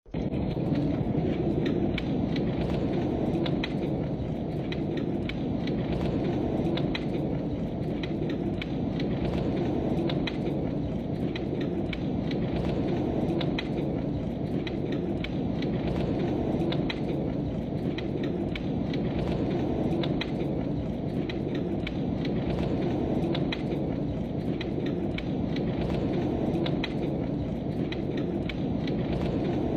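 Heavy rain falling steadily, a dense low rushing noise with many scattered sharp drop ticks.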